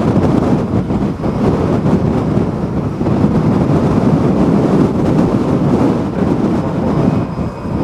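Strong gusty typhoon wind buffeting the microphone: a loud, steady rumbling roar.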